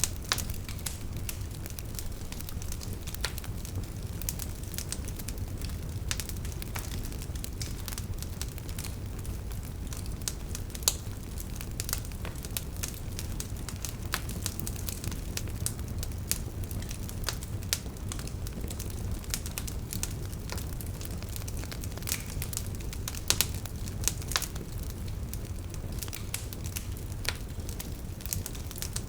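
Campfire burning with a steady low rumble and constant crackling, many sharp irregular pops, a few of them louder.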